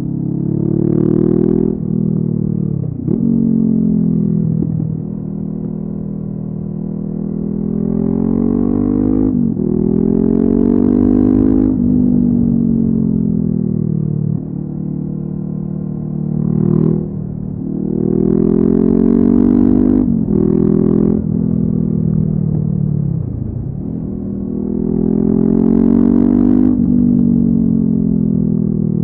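Honda CB500F parallel-twin engine through a LeoVince aftermarket exhaust, riding with revs climbing and dropping repeatedly as it accelerates through the gears, with sudden pitch drops at the shifts and slower falls as it slows. Low wind rumble runs underneath.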